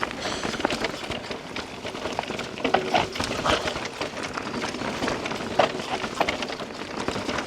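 Mountain bike rolling over a rough forest trail: tyres crunching on dirt and stones, with irregular knocks and rattles from the bike, a few louder ones around the middle.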